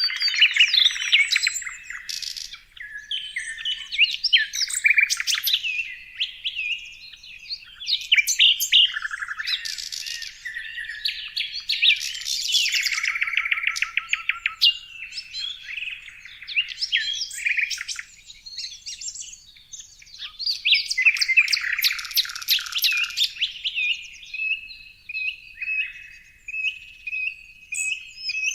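Songbirds chirping and singing in a continuous, varied medley of whistled notes, short chirps and fast trills.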